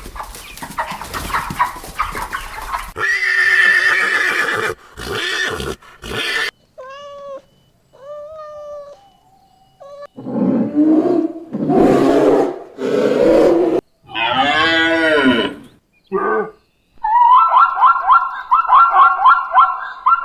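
A string of different herbivore calls, one clip after another with abrupt cuts: short pitched calls, several low drawn-out calls, and a fast run of pulsing cries near the end.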